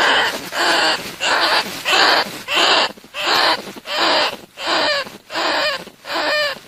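Bandicoot rat calls played as a decoy lure: short raspy squeaks repeated evenly about twice a second.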